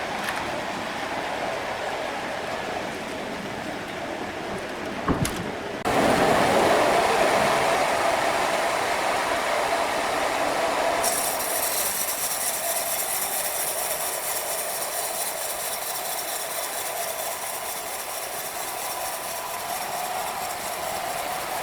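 Sawmill machinery running steadily, with a sharp knock about five seconds in, after which it grows louder; a higher hiss joins about eleven seconds in.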